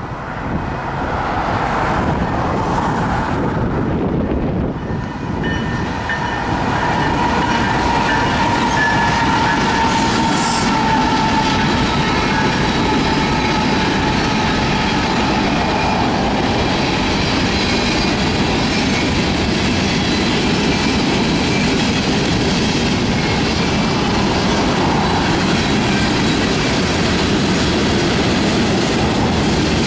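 Union Pacific freight train passing close by, two diesel locomotives leading covered hopper cars: a steady rumble and clatter of wheels on rail. From about six to twelve seconds in, a high steady tone rings over it.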